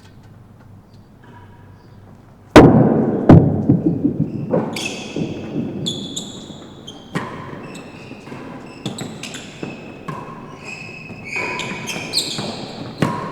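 Real tennis rally in an enclosed court: a solid ball struck by rackets and thudding off the walls. Two loud hits come close together a few seconds in, then more hits every second or two, each echoing, with short high squeaks between them.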